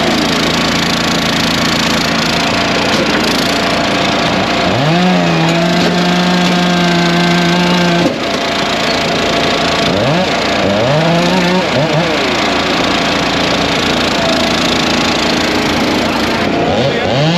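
Small gasoline engines running loud. One revs up sharply, holds high for a few seconds, then drops, and does this several times over a steady din of other engines.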